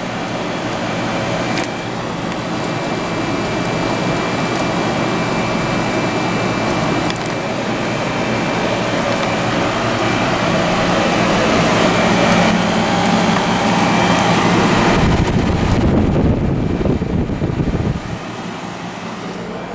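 Room air conditioner running: a steady rush of air from its fan with a low hum underneath. A deeper rumble swells for a few seconds near the end, then the sound settles quieter.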